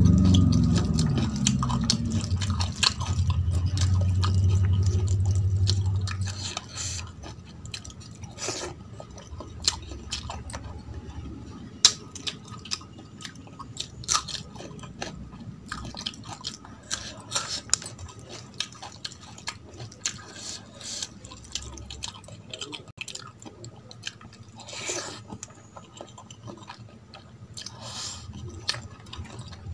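Close-miked chewing and mouth sounds of someone eating soft rice and curry by hand, with wet squishes as fingers mix the rice on a steel plate and scattered lip smacks and clicks. A low drone is loudest under the first six seconds, then drops away.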